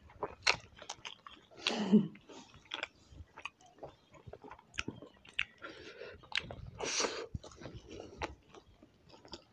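Close-up mouth sounds of people chewing and biting homemade pasta and roti: many small wet clicks and smacks.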